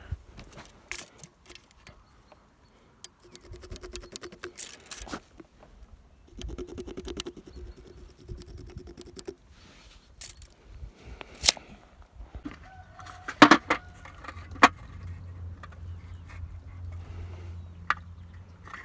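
Hand tools working a wooden log: two bouts of quick, even scraping strokes and scattered clicks, then several sharp knocks about two-thirds of the way in, with a low hum starting soon after.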